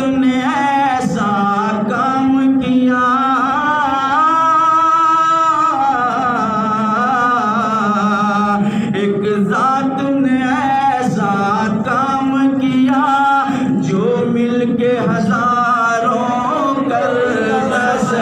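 Voices singing an Urdu devotional song in a chanting style, with long ornamented notes that waver in pitch.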